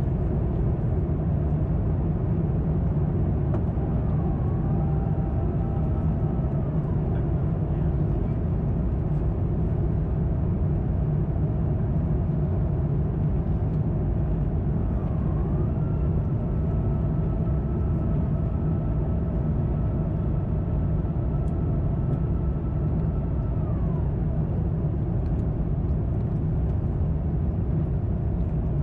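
Steady low cabin rumble of an Airbus A350-900 in flight, heard from a window seat: Rolls-Royce Trent XWB engine and airflow noise. Twice a faint whine rises, holds steady and then falls away, the second one lasting about eight seconds.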